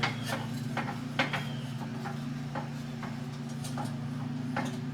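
Bandsaw running with a steady low hum, with irregular light ticks and clicks over it.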